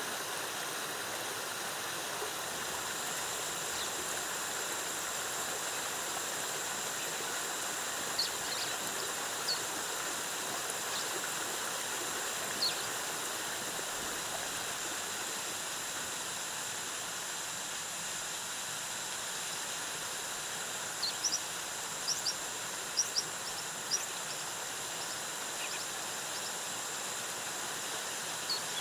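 Steady rush of a jungle waterfall's cascading water, with a constant high thin tone over it. Short high bird chirps break in a few times, then in a quick cluster about two-thirds of the way through.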